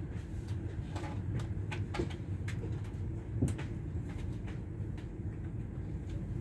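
Steady low rumble inside a passenger train carriage, with scattered light clicks and knocks; the loudest knock comes about three and a half seconds in.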